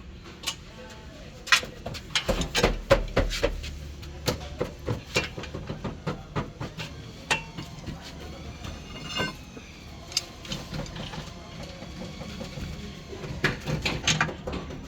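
Irregular metallic clicks and knocks of tools and parts being handled during shock absorber work. There is a brief ringing, metallic sound about halfway through.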